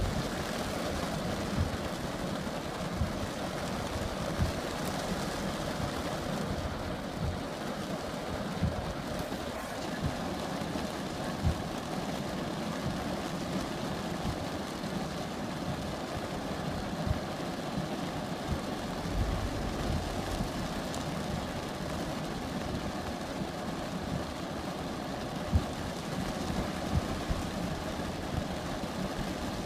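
Steady wash of rainstorm noise, with scattered low thuds and a brief low rumble about twenty seconds in.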